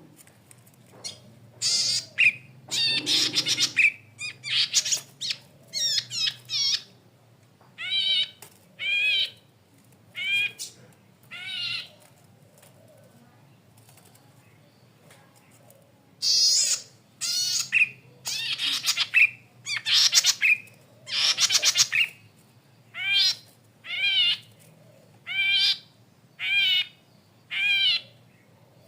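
Cici padi kepala merah, a small cisticola, calling in a series of short phrases about once a second. Harsh, buzzy calls alternate with quick trilled notes, with a pause of a few seconds midway.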